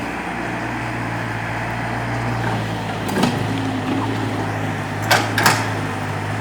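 Hydraulic excavator's diesel engine running steadily. Three sharp knocks sound over it, one about three seconds in and two close together near the end.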